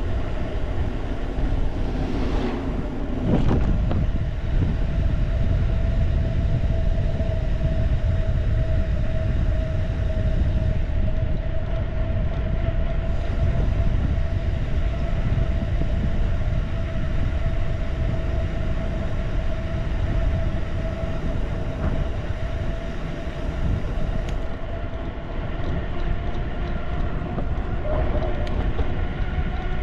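Mountain bike riding at speed: a steady whirring tone over a rough rumble of tyres and wind on the microphone.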